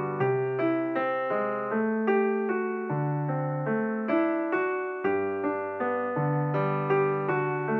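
Background piano music: a gentle melody of evenly spaced notes, about two a second, each struck and fading.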